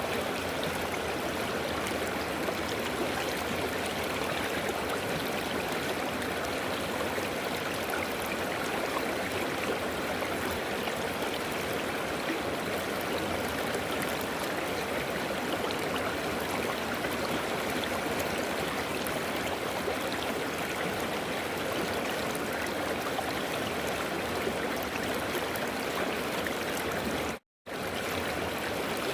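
River water flowing and rushing steadily. Near the end it cuts out abruptly to silence for a split second, then resumes.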